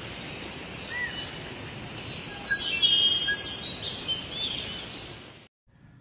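Small birds chirping over a steady hiss: a scatter of short, high, rising and falling chirps, thickest in the middle, that cuts off suddenly near the end.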